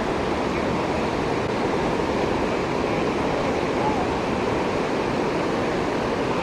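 Steady rush of flowing river water, with some wind on the microphone.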